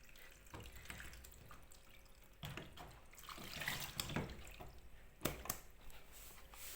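Dirty water trickling and dribbling out of a washing machine's partly opened drain filter onto a towel, unevenly and faintly, with a couple of sharp clicks about five seconds in. This is standing water being let out by hand because the machine will not drain.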